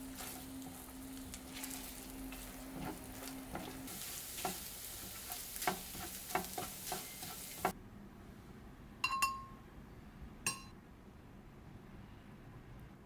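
Food sizzling in a frying pan, with a spatula tapping and scraping as it stirs, over a steady low hum for the first few seconds. The sizzle cuts off suddenly past the middle, and two light clinks of dishware follow.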